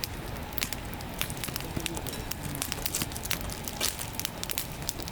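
Wood campfire burning strongly and crackling, with irregular sharp pops and snaps several times a second.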